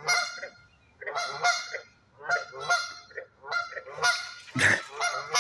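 Repeated honking animal calls, coming in short pairs about every second, with one louder, deeper call near the end.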